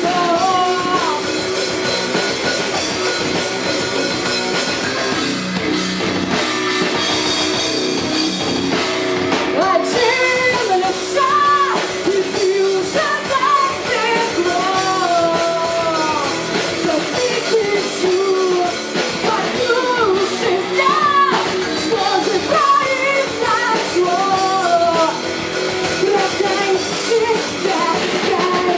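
A rock band playing live: drum kit, guitars and a lead vocal singing over them.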